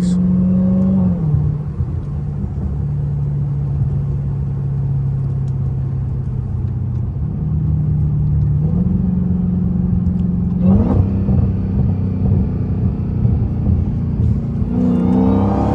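Straight-piped Dodge Challenger SRT Hellcat Redeye's supercharged 6.2-litre Hemi V8 running at low, steady revs while driving, its note dropping a little about a second in and rising again around eight seconds in.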